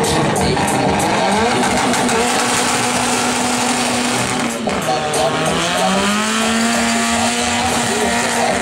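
Nissan Sunny B13's turbocharged SR20DET four-cylinder held at high revs through a burnout, its wheels spinning on the tarmac. The revs sag briefly about halfway through, then climb back and hold steady.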